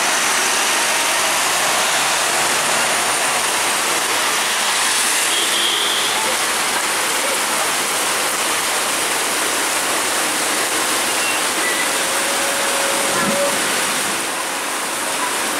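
Heavy thunderstorm rain pouring down, a steady dense hiss that masks everything else.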